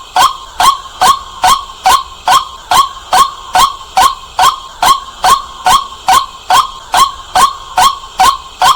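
White-breasted waterhen calling: one short, sharp note repeated about two and a half times a second in a very even rhythm, loud and clear.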